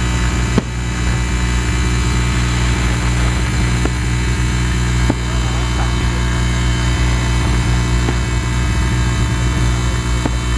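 A steady, loud, low droning rumble with a few short, sharp pops scattered through it: fireworks going off during a fireworks display.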